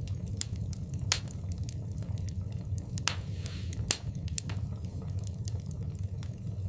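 Wood fire in a fireplace crackling, with irregular sharp pops over a steady low rumble. Louder pops come about a second in and near four seconds, with a brief hiss just after three seconds.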